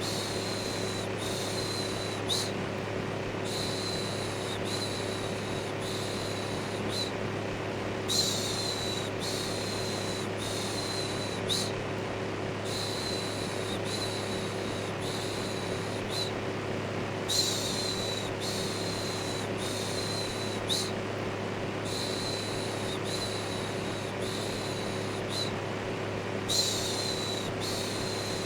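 Electric fan running with a steady whoosh and a low motor hum, overlaid by a repeated human "shhh" shushing sound: groups of four shushes, each just under a second long, with a short pause between groups, repeating about every four to five seconds.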